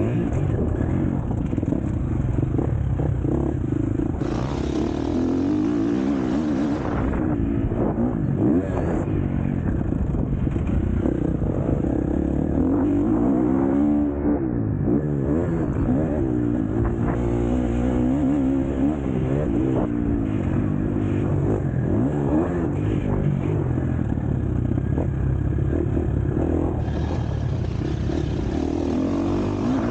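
KTM SX-F four-stroke motocross bike engine ridden hard, revving up and falling back over and over with throttle and gear changes, with a brief drop about halfway.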